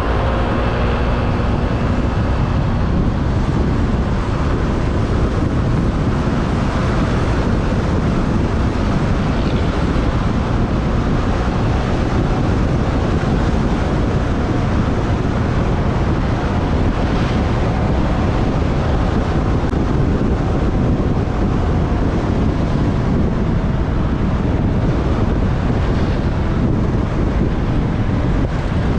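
Steady wind rushing over the microphone of a moving motorbike, with engine and traffic noise underneath; a vehicle's engine note slowly falls in pitch about two-thirds of the way through.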